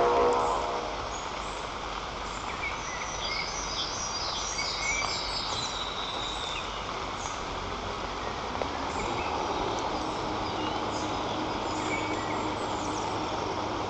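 Outdoor forest ambience at a treetop nest: a steady rushing background with small songbirds chirping and singing at intervals, busiest a few seconds in. A brief loud sound right at the start, and a low steady hum joins about ten seconds in.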